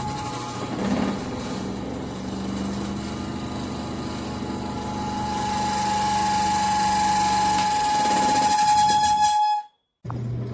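Small portable twin-tub washing machine's electric motor running: a steady hum with a held whine that grows louder toward the end, then cuts off abruptly, and a similar hum starts again right after.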